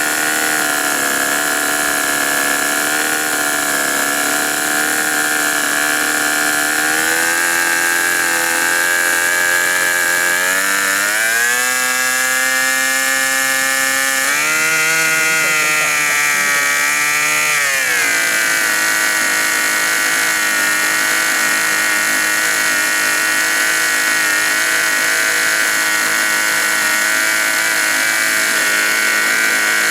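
Five-cylinder G-Mark radial model-aircraft engine running steadily. It revs up about ten seconds in, changes pitch again around fourteen seconds, then drops back to its earlier speed about eighteen seconds in.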